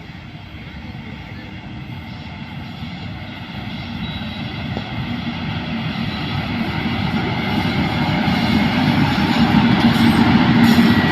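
Electric locomotive-hauled train approaching at speed, its steady running hum and motor whine growing steadily louder.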